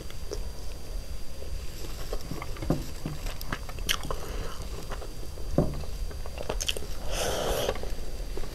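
Close-up eating sounds of chicken biryani eaten by hand: chewing with scattered wet clicks and lip smacks, and a brief hissy burst about seven seconds in.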